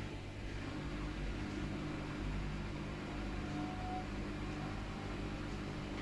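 Samsung WW80R421HFX front-loading washing machine running with a steady low mechanical hum.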